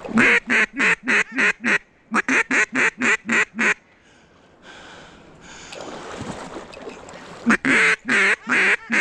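Duck call blown in rapid runs of loud quacks, about four to five a second. There are two runs at the start, a pause of a few seconds, then another run near the end.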